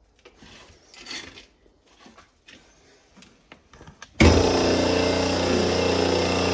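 A few light clicks and rustles of parts being handled, then about four seconds in a loud machine starts abruptly and runs steadily with a constant hum.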